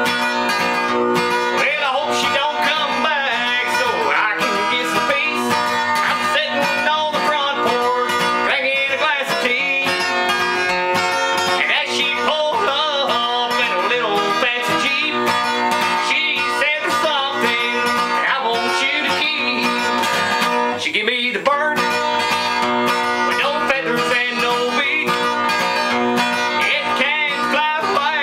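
Country-style song carried by acoustic guitar, playing steadily with a melody line that bends and glides over it.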